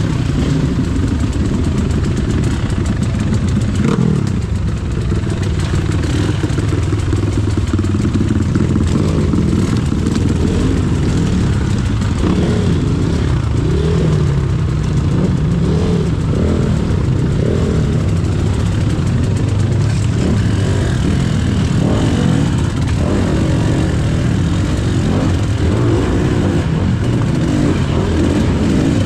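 KTM EXC 300 two-stroke enduro bike engine running at low speed, its revs rising and falling over and over with short throttle blips.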